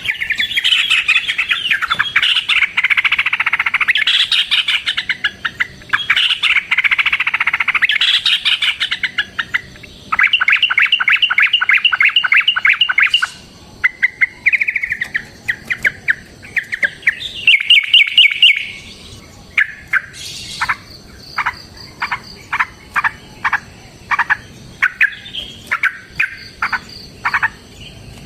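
Yellow-vented bulbuls (trucukan) singing in loud, dense chattering phrases. A long, fast run of repeated notes follows about ten seconds in. The last third breaks into a string of short separate call notes, about two a second.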